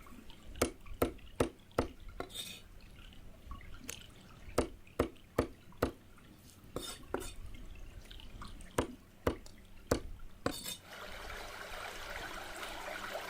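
Cooking sounds: a string of sharp, irregular clicks and taps, like utensils or drips. A steady hiss starts near the end, the kind a pan sizzling makes.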